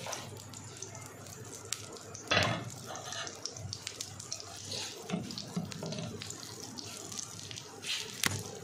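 Shami kababs sizzling as they shallow-fry in fat on a flat non-stick pan, a steady hiss full of small crackles and pops. A knock about two and a half seconds in and a sharp click near the end.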